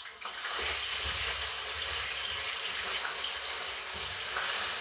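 Chopped chicken-leg pieces frying in hot oil in a pan: a steady sizzle that starts a moment in.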